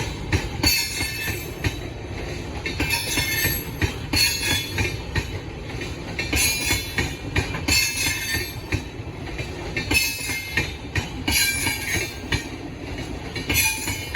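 Rajdhani Express coaches rolling past at low speed as the train departs. A steady low rumble of wheels on rail is broken every second or two by short, high-pitched wheel squeals.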